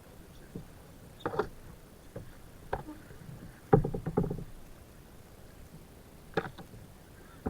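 Scattered hollow knocks and rattles of things striking a kayak's hull, with a louder burst of rattling knocks a bit under four seconds in.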